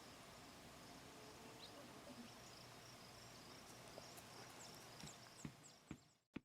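Near silence: faint outdoor background with a high, faint steady buzz, a few soft clicks near the end, then the sound fades and cuts off with one sharp click.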